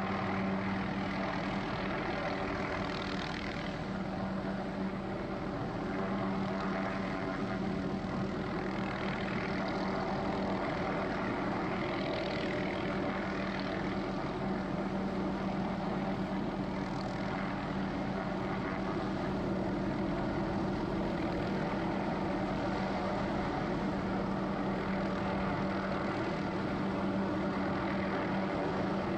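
Helicopter running steadily, its engine and rotors making a constant drone with a steady hum.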